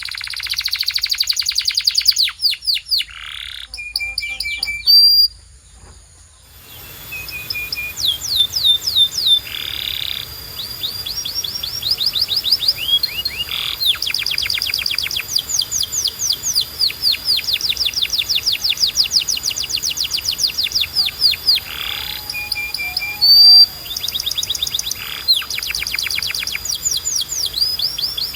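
Domestic canary singing a long song of fast, rapidly repeated trills and rolls mixed with short held whistles, with a brief pause about five seconds in.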